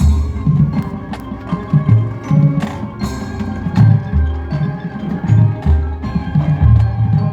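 High school marching band music with the front-ensemble percussion to the fore: mallet keyboards and wood block strokes over a line of low bass notes that changes about every half second.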